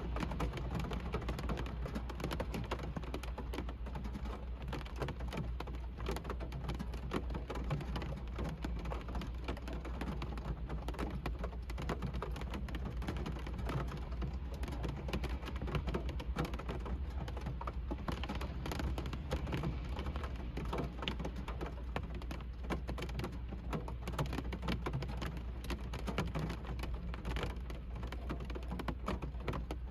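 Rain pattering on a car's roof and windows, heard from inside the car: a dense, steady spatter of drop ticks over a constant low rumble.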